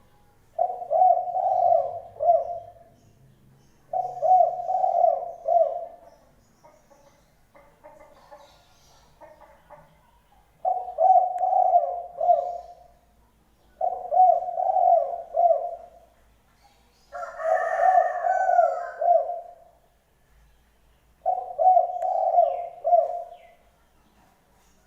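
A bird calling in repeated low-pitched phrases, six in all, each about two seconds long and coming every three to four seconds. Fainter calls fill the gap between the second and third phrases, and a higher call sounds over the fifth.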